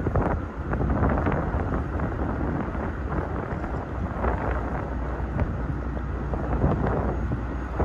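Gusty wind buffeting the microphone over a low, steady rumble.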